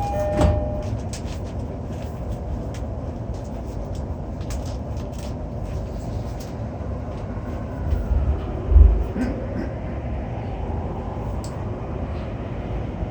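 Inside a JR East E231-800 series commuter train running in a subway tunnel just after leaving a station: a steady low rumble of wheels on rail, with two heavier low thumps about eight and nine seconds in.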